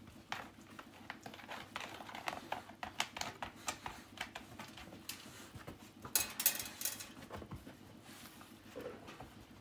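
A dog playing alone with a football: a run of quick, irregular taps and scuffles from its paws and the ball, busiest about six seconds in.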